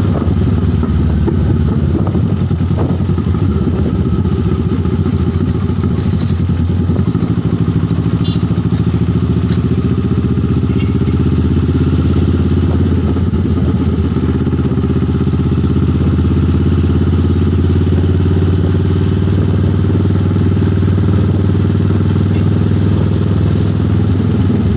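Motorcycle engine running steadily, its pitch dropping and rising slightly a couple of times.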